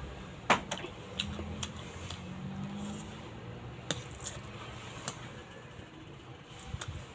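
A person eating chow mein close to the microphone: chewing, with a handful of sharp clicks and taps scattered through.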